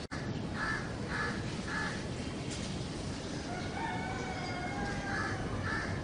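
Birds calling over a steady background hiss: three short harsh calls about half a second apart near the start, then a longer call of several held tones in the second half, and two more short calls near the end.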